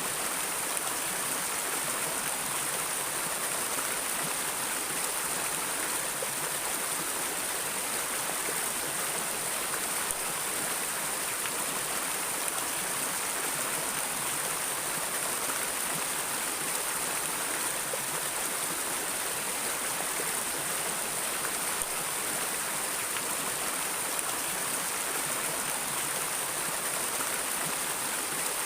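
Flowing water, a steady even rush with no breaks or changes.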